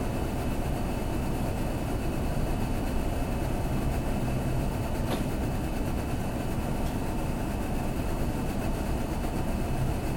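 Steady low rumble and hum inside a Kintetsu limited express car as it pulls out of the station after the doors close, with a faint click about five seconds in.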